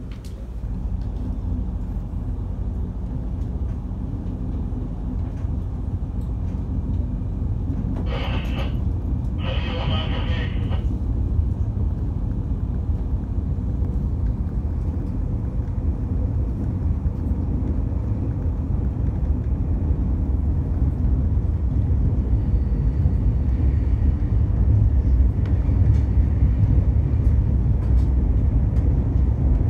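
Steady low rumble of a container freight train passing close by, heard through a closed window and growing slightly louder over time. Two brief higher-pitched sounds come about eight and ten seconds in.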